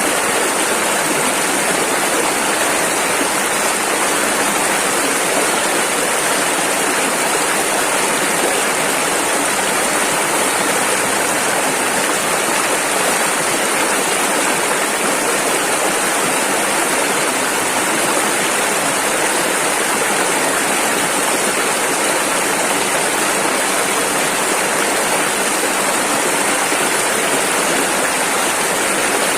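Rushing river water: a steady, unbroken rush of fast-flowing rapids.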